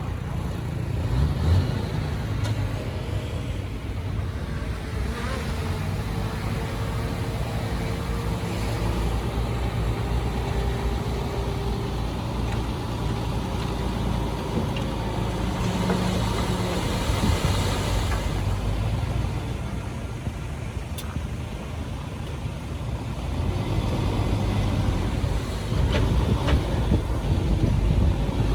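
Diesel engine of heavy earthmoving machinery running steadily at work, growing somewhat louder near the end.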